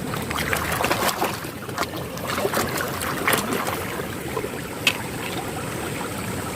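Water sloshing and splashing as a mud-caked toy car is washed by hand, with scattered small clicks and knocks.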